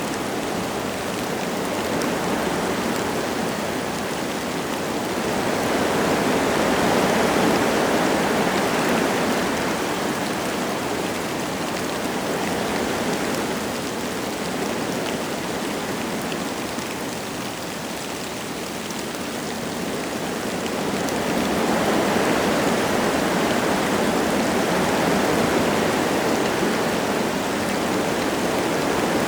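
Wind gusting through forest trees with light rain falling, an even rushing that swells about five seconds in and again past twenty seconds.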